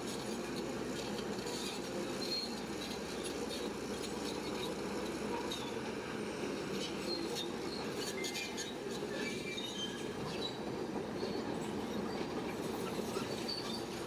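Shantui crawler bulldozer running, its steel tracks squealing and clinking over a steady engine and undercarriage rumble.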